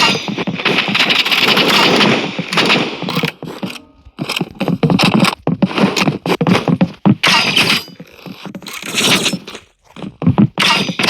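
Loud, harsh crackling noise in dense, irregular bursts and stutters, breaking off briefly about four seconds in and again near the end.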